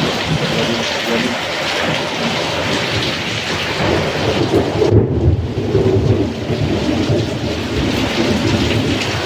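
Heavy rain pouring down in strong wind: a dense, steady hiss of rain with a low rumble underneath. The rumble swells about five seconds in.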